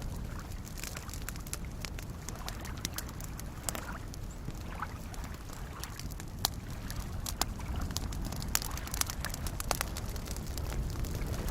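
Wood campfire crackling with scattered sharp pops, over a steady low wash of small waves lapping at a lakeshore.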